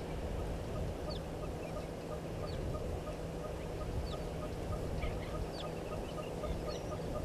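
Outdoor birdsong ambience: short, high, falling chirps now and then, over a faint note repeated about three times a second and a low steady rumble.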